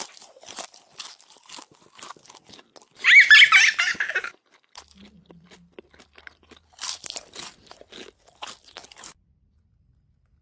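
Crunchy food being bitten and chewed in quick irregular crunches. About three seconds in there is a loud, high, squeaky call lasting about a second.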